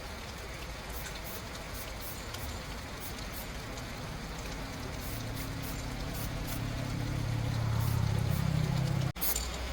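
Small motorcycle engine running steadily with a low hum, slowly growing louder. It cuts off abruptly about nine seconds in.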